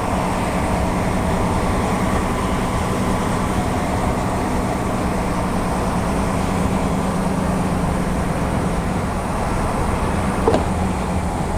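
Articulated lorry's diesel engine running with a steady low drone. A short click comes about ten and a half seconds in.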